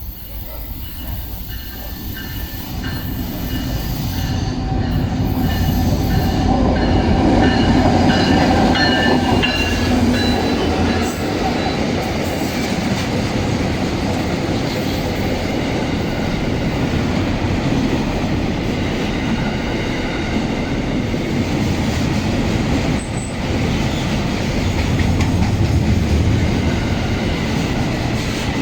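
Diesel-hauled container freight train, growing louder over the first eight seconds as it arrives, then its cars rolling steadily past on the rails. Thin high wheel tones are heard in the first half.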